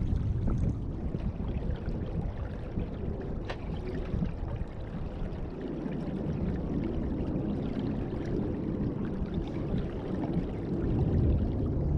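Water rushing and gurgling along the hull of a Beneteau First 20 sailboat under way, over an uneven low rumble. A single sharp tick sounds about three and a half seconds in.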